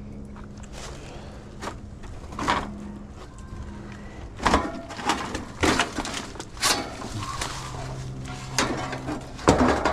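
Irregular knocks and clatter of tools and metal parts being handled, louder and closer together from about halfway in, over a low steady hum.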